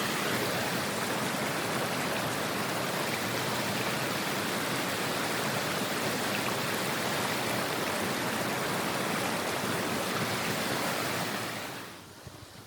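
Blizzard wind blowing steadily, a dense even hiss that fades down about a second before the end.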